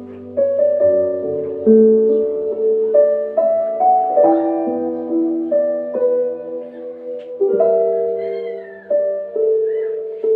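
Soft, slow solo piano music with sustained notes. A few short, high, curving calls sound over it near the end.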